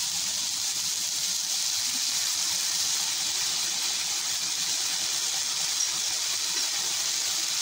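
Chopped vegetables sizzling in a hot oiled frying pan on high flame, a steady even hiss.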